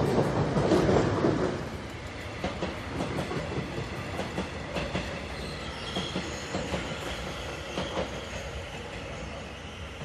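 Electric passenger train running along the tracks, loudest in the first second and a half and then easing, its wheels clicking over the rail joints, with a thin wheel squeal in the middle.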